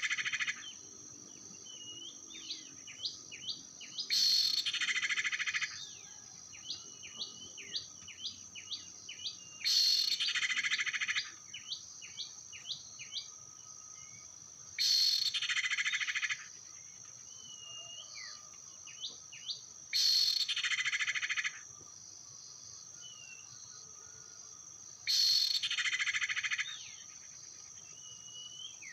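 Birds chirping in quick runs of short calls that drop in pitch, between loud buzzy bursts about a second and a half long that come back every five seconds or so, over a steady high insect drone.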